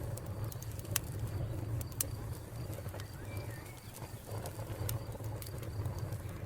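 A wood fire crackling, with a steady low rumble and scattered sharp pops. Under it, crickets chirp in a faint, even pulse, and a bird gives a brief call about halfway through.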